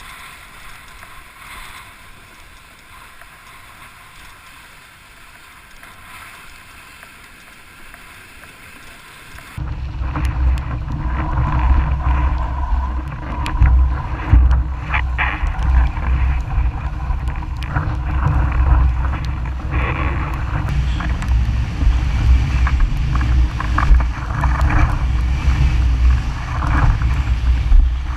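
Wind and water noise while windsurfing. About a third of the way in, a quieter steady hiss gives way abruptly to loud wind buffeting the microphone, with water rushing and splashing against the board.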